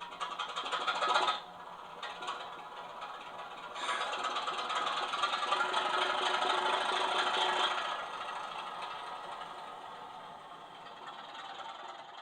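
OO gauge Class 24 model diesel locomotive running on track, a rattly mechanical running sound. It swells about a second in, dips, grows louder again from about four to eight seconds, then fades away.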